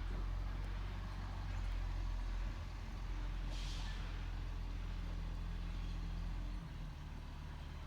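Garbage truck's diesel engine running steadily, with a short air-brake hiss about three and a half seconds in; the engine note drops slightly near the end.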